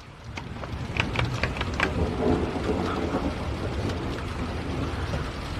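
Rain falling with a low roll of thunder rumbling through. Sharp raindrop ticks land close by between about one and two seconds in.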